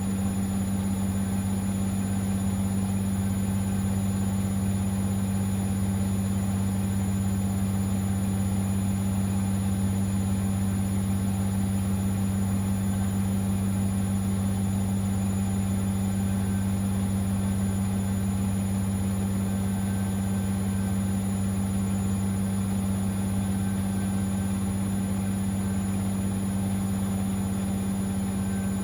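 Siemens XLS 140 A washing machine running a steady spin at speed: an even, unchanging motor hum with a low drone and no tumbling rhythm.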